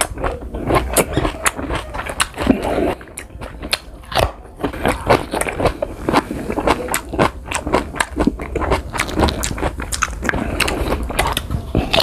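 Crunching and chewing of raw green guava slices close to the microphone: crisp crunches come several times a second, easing off for a moment a few seconds in.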